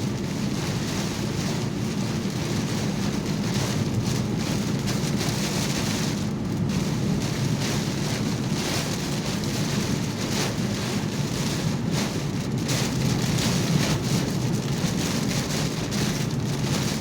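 Heavy rain pounding a car, heard from inside the moving car: a dense, steady rush of rain and wet road noise.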